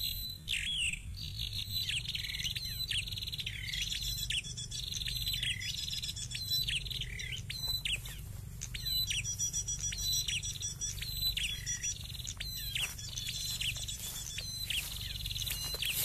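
Prenjak calls: a long run of short, sharp falling chirps, about two a second, with thin high trills above them.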